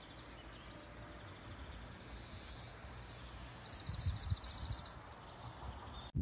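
Steady outdoor background noise with a small bird singing: a few high chirps, then a fast, high trill lasting about a second and a half around the middle.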